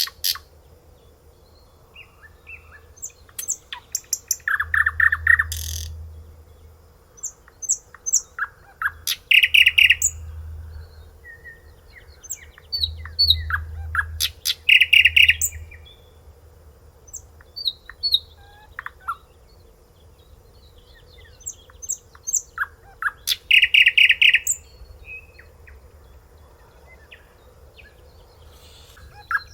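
A songbird singing phrases of quick repeated trilled notes every few seconds, with scattered higher chirps in between. A faint steady hum sounds underneath.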